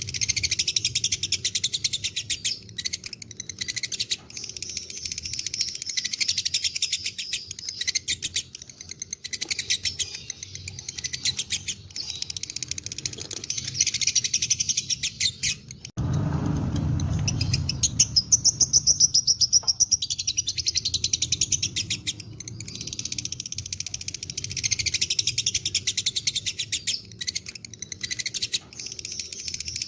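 Lovebirds chattering in long, very rapid, almost unbroken runs of high notes, the 'ngekek panjang' song that fighter lovebirds are kept for. About halfway through the chatter breaks off for a few seconds, replaced by a low rumbling noise and one high whistled note, then picks up again.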